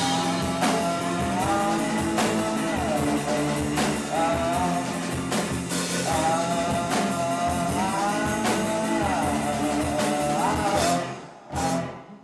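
A live rock band playing in the gap between sung lines: drums, bass and guitar, with a gliding melodic line over them. About eleven seconds in, the full band drops away abruptly, leaving a much quieter passage. The audience recording is poor, with a rough, muddy sound.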